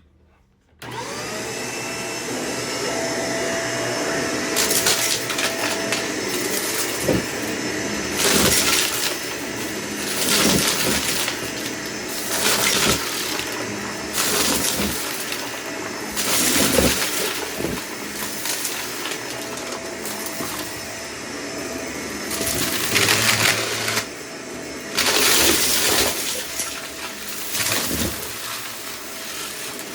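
Vacuum cleaner switched on about a second in, its motor winding up to a steady run. Over the running motor come repeated loud rattling surges, roughly every two seconds, as mess is sucked up through the vacuum.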